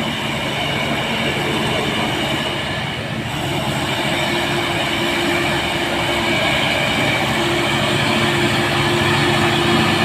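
Heavily loaded diesel container trailer trucks labouring up a steep climb, engines running steadily under load and growing slightly louder as they come on.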